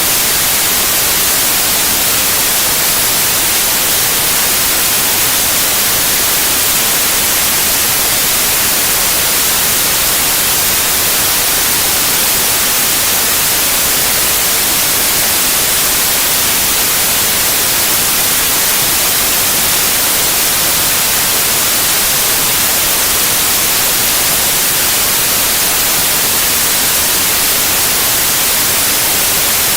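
Steady white noise: an even, unchanging hiss, bright and strongest in the highs.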